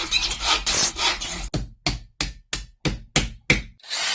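A run of rasping strokes, irregular and overlapping at first, then short even strokes about three a second.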